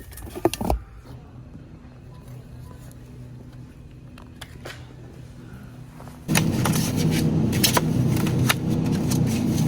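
A few clicks and knocks, then a quiet steady hum. About six seconds in, a vehicle's engine and road rumble come in abruptly, with scattered rattles and clicks over them.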